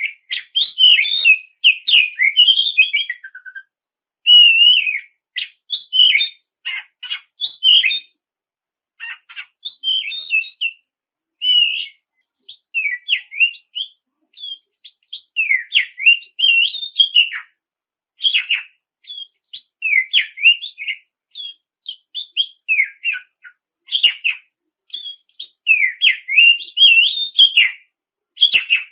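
Oriental magpie-robin (kacer) in full song (gacor): a fast, varied string of short whistled and scratchy phrases, delivered in bursts with brief pauses between them.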